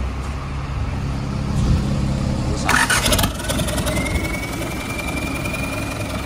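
Hyundai D4AL four-cylinder diesel engine running, with a short, loud burst of clatter about three seconds in. From about four seconds a steady high whine joins the low engine hum.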